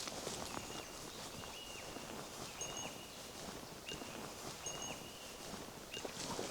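A woodland bird repeating a short, clear whistled note about once a second, with a few fainter higher notes between, over soft footsteps on a forest path.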